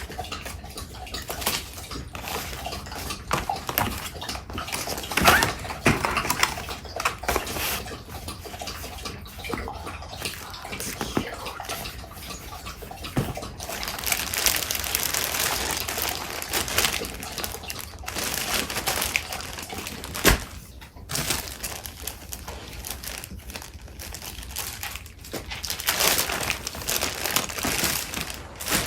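A dog lapping water from its bowl, wet slurping and sloshing, mixed with paper and craft supplies being rustled and shuffled by hand. The rustling comes in denser stretches about halfway through and again near the end.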